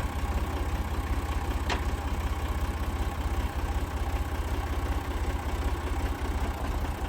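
Massey Ferguson tractor engine idling steadily, with one short sharp click about one and a half seconds in.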